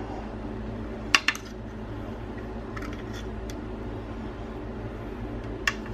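Sharp clacks of hard crab shell being cracked and picked apart by hand. There are two close together about a second in, a few faint ones in the middle, and one more near the end, over a steady low room hum.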